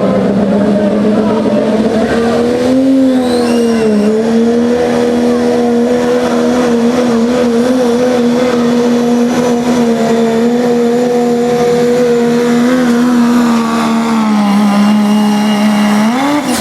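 Turbocharged diesel pickup engine held at high, steady revs under load during a sled pull, with a brief dip about four seconds in, easing off near the end, then a short rev that falls away.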